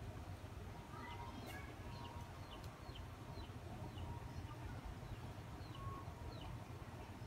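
Faint, short high chirps repeating about twice a second, typical of a small bird calling, over a low steady hum.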